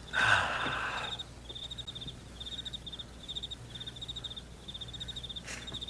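Cricket chirping steadily: short, high pulsed chirps about twice a second. A brief burst of noise comes in the first second.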